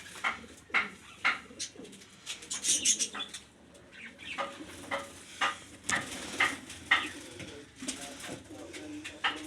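Domestic pigeons cooing in a loft, a low wavering coo running throughout, with a string of short, sharp higher sounds about once or twice a second.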